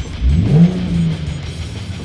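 Nissan Fairlady Z (Z33) 3.5-litre VQ35HR V6 exhaust through a Central 20 Z Sport Ver.1 rear muffler (stock intake, manifolds and Y-pipe), blipped once: the note rises quickly about half a second in, then holds and settles. Background music with guitar plays under it.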